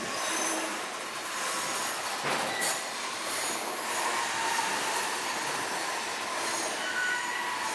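Freight train of wagons carrying semi-trailers rolling past, with a steady rumble of steel wheels on rail and short high-pitched wheel squeals coming and going.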